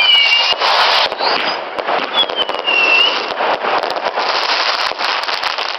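Consumer fireworks going off in rapid succession: a dense crackle of many small bangs, with high whistles falling in pitch at the start and again about two seconds in.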